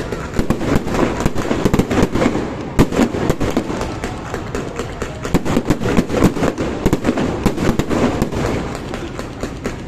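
A fireworks display going off, with many bangs and crackling pops in rapid, irregular succession.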